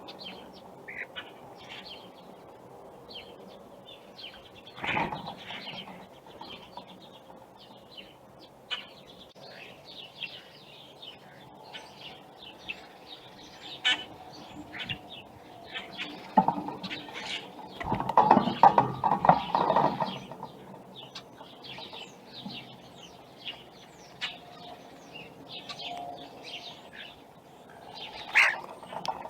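Birds chirping with many short, high calls, and a flurry of wing flapping about 18 seconds in, with a shorter flutter around 5 seconds.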